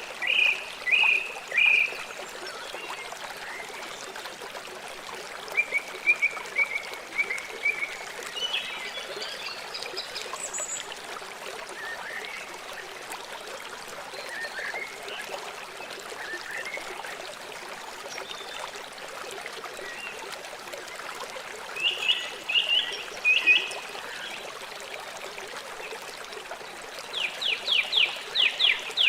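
River water flowing steadily, with birds calling over it now and then: short chirps in small groups, and a quick run of repeated notes near the end.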